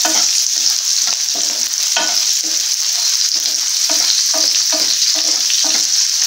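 Garlic cloves, shallots and dried red chillies sizzling in gingelly (sesame) oil in a nonstick pan, stirred with a wooden spatula that scrapes the pan in quick strokes, about three a second. The sauté is light: the shallots are just turning translucent.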